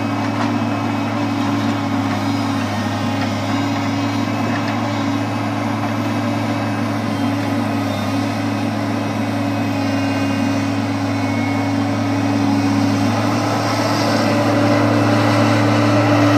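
Log truck's engine running steadily with a deep hum, growing a little louder over the last few seconds.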